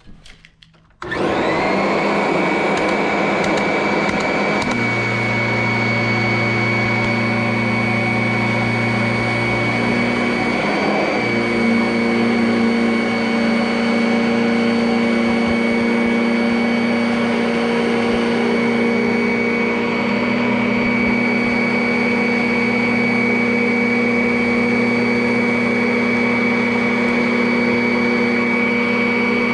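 Vacuum cleaner switched on about a second in, its motor spinning up to a steady high whine and then running on. The pitch of the running motor shifts twice, about 5 and 11 seconds in.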